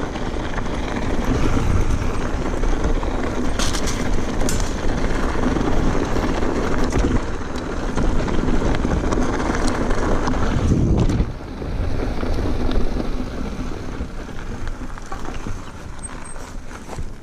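Mountain bike rolling fast down dirt singletrack: tyre and trail noise with wind buffeting the microphone, two sharp rattles about four seconds in. It gets quieter about eleven seconds in.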